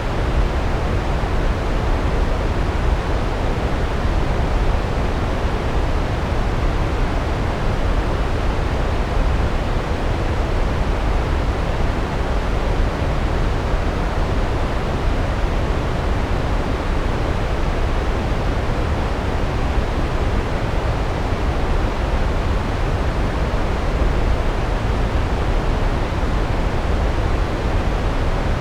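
Large waterfall, water falling heavily onto rocks in a steady, unbroken rush, strongest in the low end.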